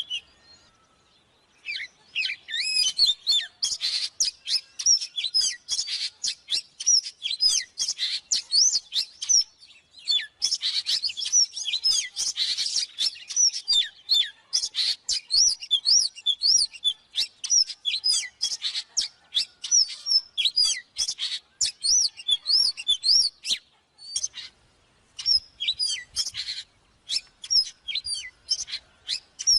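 Oriental magpie-robin singing: a fast, continuous run of varied whistles and chirps, broken by short pauses about a second in, around ten seconds in and near 24 seconds.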